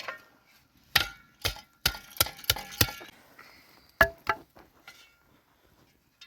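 A series of sharp, irregular knocks and clinks with a slight ring: six in quick succession, then two more about a second later.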